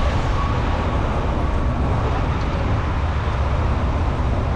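Steady city street traffic noise: a continuous low rumble of passing vehicles with tyre hiss on rain-wet roads.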